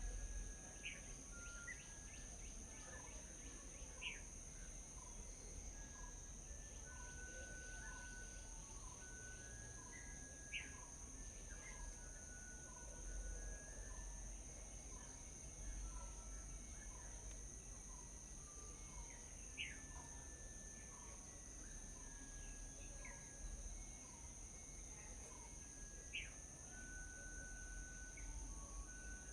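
Faint morning outdoor ambience: small birds chirping and calling, with a sharp high chirp every few seconds and a run of short repeated notes, over a steady high-pitched insect drone and a low rumble.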